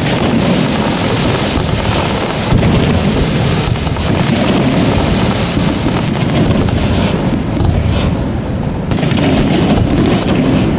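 Large fireworks display in a dense barrage, the bursts running together into one continuous rumble with scattered sharper cracks.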